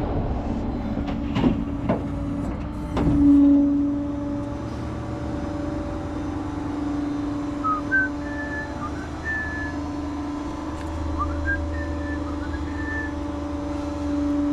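Truck engine running steadily with a constant droning hum, with a few sharp knocks in the first three seconds and faint short whistling chirps near the middle.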